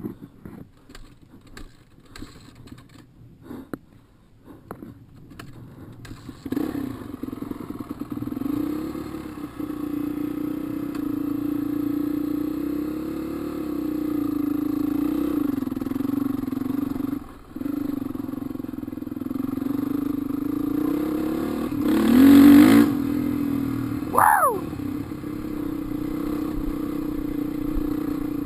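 A dirt bike engine comes in suddenly about six seconds in, after a few light clicks and clatter, and runs steadily, revving up a few times; the loudest rev comes near the end. Shortly after it, a brief high squeak slides down in pitch.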